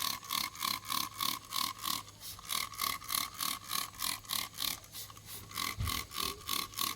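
Hand trigger sprayer on a bottle of iron remover pumped rapidly, about five squirts a second, each a short hiss with a squeaky tone.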